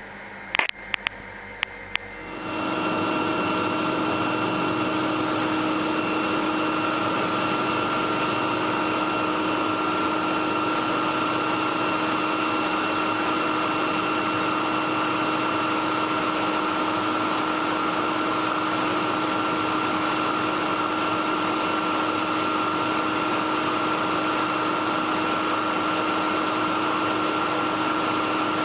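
Helicopter in flight: steady cabin noise of engine and rotors with an even whine of held tones, setting in about two seconds in after a few short clicks.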